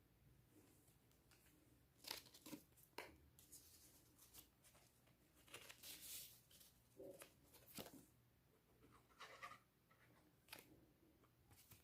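Faint, scattered taps and rustles of paper and cardboard toilet-roll pieces being handled and glued down onto a sheet of paper.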